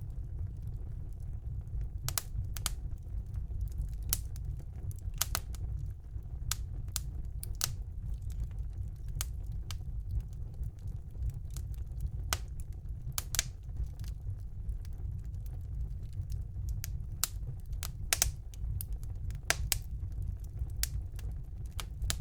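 Wood fire burning in a fireplace, crackling: irregular sharp pops and snaps, a few each second, over a steady low rumble of the flames.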